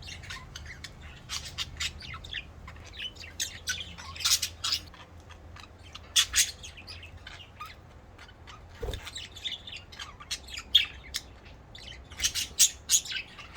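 Pet budgerigars chirping and chattering: a steady scatter of short, sharp chirps, with louder clusters about four, six and twelve seconds in.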